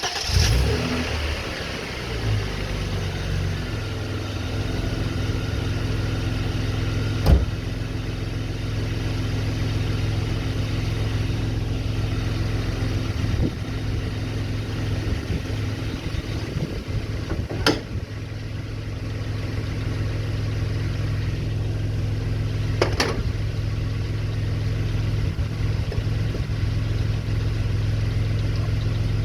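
Vauxhall Omega car engine catching and settling into a steady idle, freshly filled with new oil after an oil change. A few sharp knocks sound over the idle.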